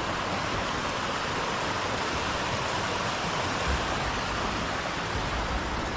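Steady rush of stream water flowing down from the waterfall, with a few low rumbles in the last two seconds.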